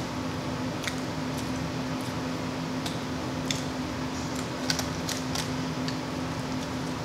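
Chewing with scattered wet lip smacks and mouth clicks, over a steady low hum.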